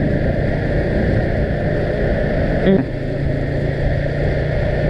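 Vehicle engine running steadily with road noise while driving, with one short sharp sound a little past halfway.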